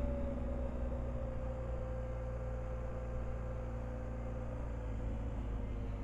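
Motorcycle engine droning steadily under way, with a deep rumble underneath; its note drifts slowly lower through the first few seconds.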